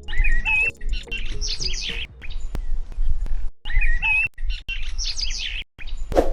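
Small birds chirping in quick repeated phrases of short whistled notes over a low rumble, with the sound cutting out abruptly for a moment several times.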